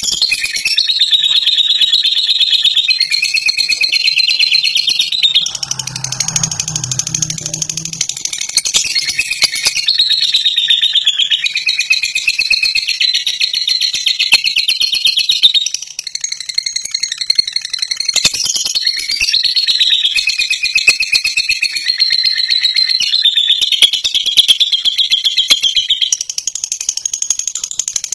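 Lovebird singing its 'ngekek': a loud, very rapid chattering trill held in long unbroken runs of several seconds, with a few short breaks.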